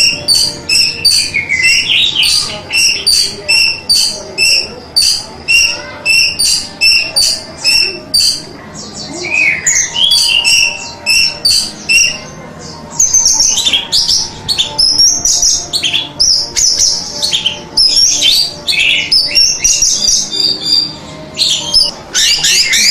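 Orange-headed thrush (anis merah) singing: a quick series of short, evenly repeated notes that gives way about halfway through to a faster, more varied warble.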